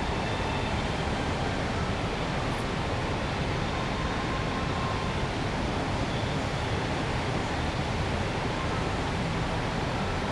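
Steady city ambience: a constant wash of traffic and urban hum, with no distinct events standing out.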